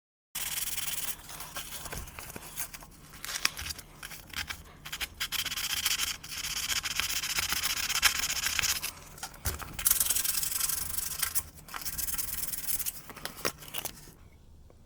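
Abrasive being rubbed back and forth on a furnace flame sensor's metal rod, scrubbing off the dirty buildup that makes the furnace shut off right after it kicks on. Scratchy rubbing strokes in uneven runs, starting suddenly and stopping about a second before the end.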